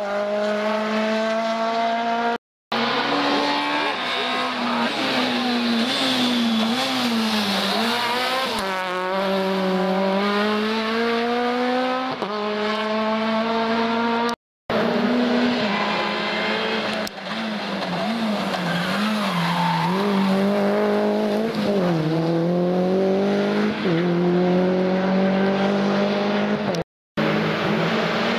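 Rally car engines revving hard on a special stage. The pitch climbs through the gears, drops at each shift and goes quickly up and down in the corners. The sound is broken three times by brief silences where clips are cut together.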